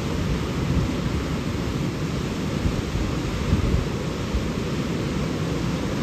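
Powerful rushing water, a loud steady deep rumble.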